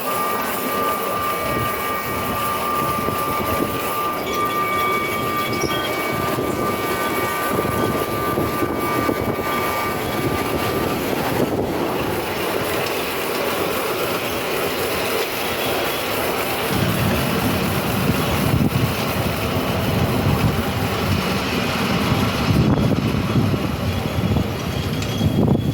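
Miniature railway train running along the track, with a steady high-pitched whine over the running noise for roughly the first ten seconds. The low running noise grows heavier about two-thirds of the way through.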